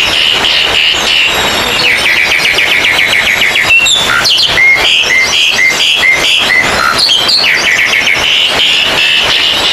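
Oriental magpie-robins singing loudly together, a dense chorus of fast chattering trills, with a run of repeated whistled notes, about two a second, in the middle.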